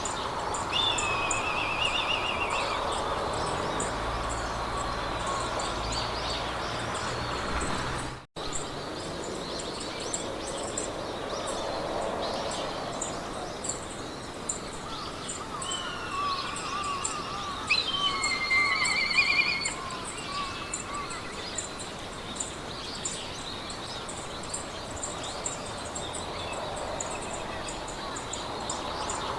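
Meadow ambience: songbirds sing trilled and warbling phrases, louder a little past halfway, over a steady hiss of wind in grass and a fast, high ticking that runs on throughout. The sound cuts out for a split second about eight seconds in.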